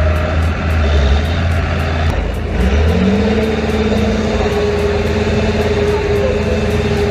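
Heavy tractor diesel engine running hard under load: its pitch rises about two and a half seconds in and then holds steady and high, as in a pulling contest between two tractors.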